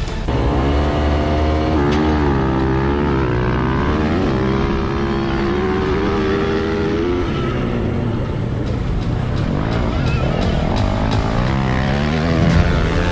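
Dirt bike engine revving, its pitch rising and falling over and over.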